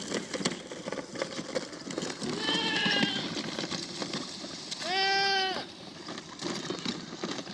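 A goat bleating twice. The second call, about five seconds in, is the louder and is held for nearly a second.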